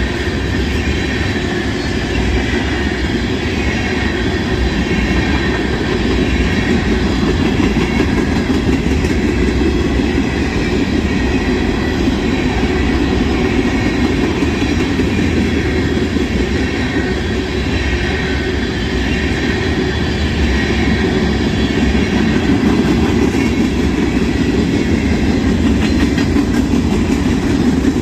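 Freight cars of a passing train rolling by at speed: a steady, loud wheel-on-rail rolling noise with clatter from the wheels and cars.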